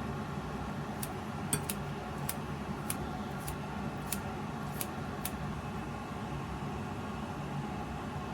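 A steady low machine hum with about nine light, sharp clicks spaced irregularly over the first five seconds.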